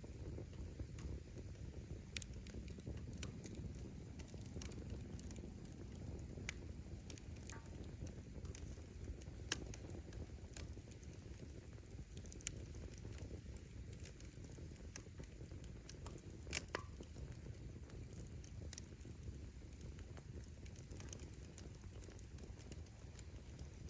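Wood bonfire burning: a steady low rush of flame with scattered crackles and sharp pops from the burning firewood, the loudest pop about sixteen seconds in.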